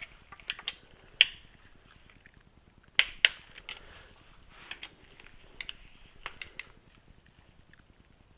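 Sharp clicks scattered through, the loudest about a second in and two close together about three seconds in, then lighter ones: a click-type torque wrench set to 10 newton metres clicking off as the engine case bolts are double-checked.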